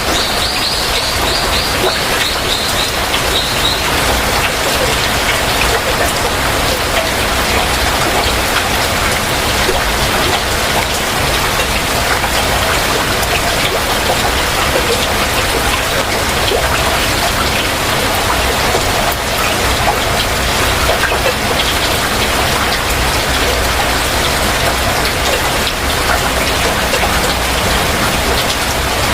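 Heavy rain falling steadily, a dense patter of drops. In the first few seconds a bird calls a quick run of short repeated notes, falling slightly in pitch.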